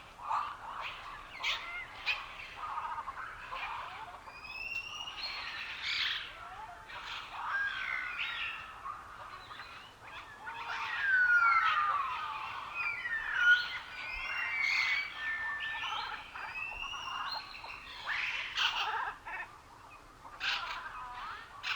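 Several songbirds singing and calling at once: a dense chorus of chirps, whistled glides and trills that overlaps without pause, busiest about halfway through.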